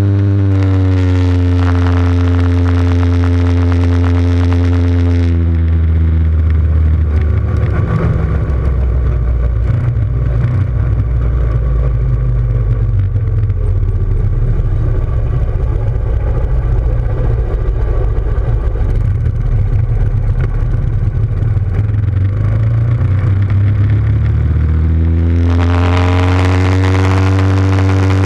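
Motorcycle engine running at a steady, held speed. Its pitch dips slightly early on, gives way for most of the middle to a rough, choppy low rumble, and climbs again near the end.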